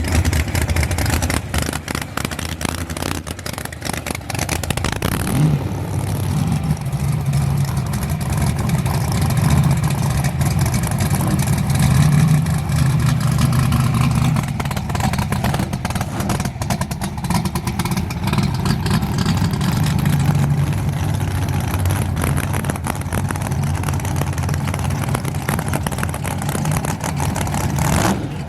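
A street-racing car engine running loudly, with a deep drone that sets in about five seconds in and holds, swelling and easing a little.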